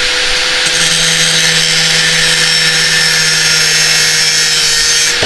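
A power cutting tool running at steady speed and cutting through a steel pipe, a constant motor whine under a harsh hiss of cutting. Right at the end the motor starts to wind down.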